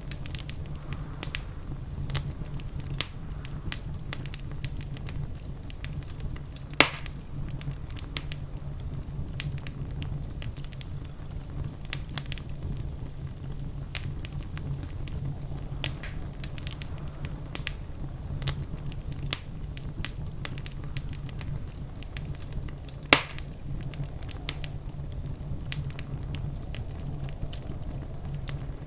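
Fireplace fire crackling steadily, with a low rumble of flames under frequent small snaps. Two louder pops stand out, one about seven seconds in and one about twenty-three seconds in.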